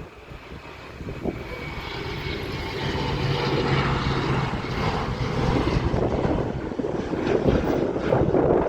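Aircraft engines growing steadily louder as a plane approaches, a low hum and a higher whine over a rushing noise.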